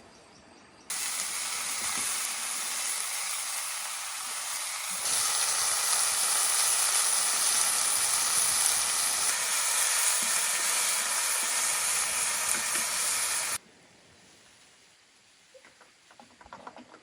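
Loud steady hissing noise that starts abruptly about a second in, grows louder about five seconds in, and cuts off suddenly near the end.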